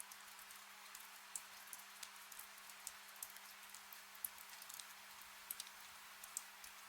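Faint, gentle rain: a soft even hiss with many scattered drops ticking irregularly, over a faint steady low hum.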